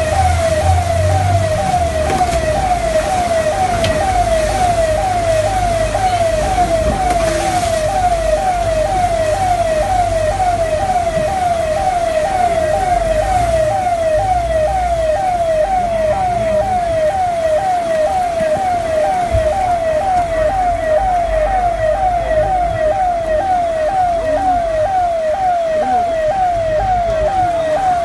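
Electronic siren sounding a falling tone that repeats a little over once a second, over a low rumble.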